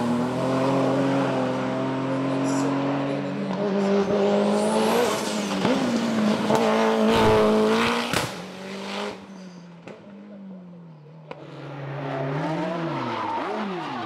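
Hillclimb race car engine at full throttle, its note climbing and stepping down with a series of gear changes. It drops away sharply about eight seconds in, and an engine note rises again near the end.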